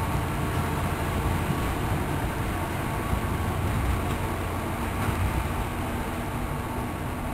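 NJ Transit commuter train, led by a GP40FH-2 diesel locomotive, pulling away down the line, with a steady low rumble of engine and wheels and a few faint steady tones above it.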